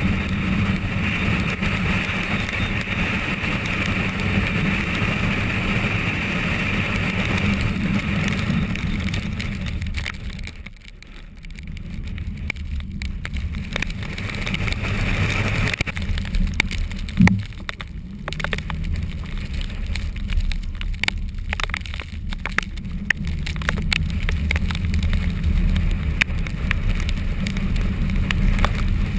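Car driving: steady road and engine noise heard from inside the cabin. It eases off about eleven seconds in and then builds back up, with scattered sharp ticks and a single thump a few seconds later.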